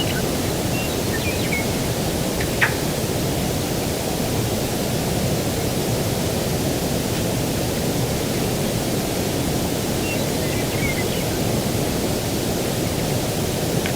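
Steady low rushing outdoor ambience of breeze and distant surf, with a few short high bird chirps in the first second or so and again about ten seconds in, and a single sharp click just after two and a half seconds.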